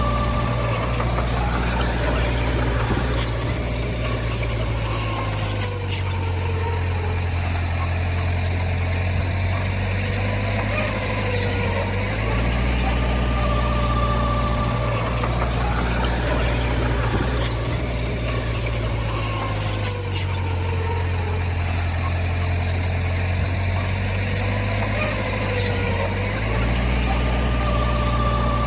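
Heavy diesel engine of a working bulldozer, its pitch and load rising and falling in a repeating cycle about every seven seconds as it works back and forth. A few short metallic clicks come through now and then.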